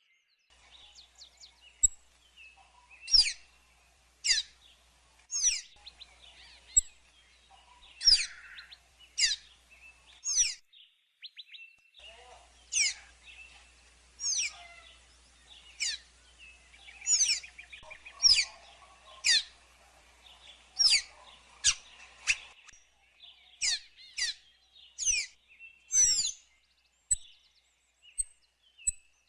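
A songbird repeating sharp, downward-sweeping whistled calls about once a second, with softer chirps between them and a short pause about halfway through.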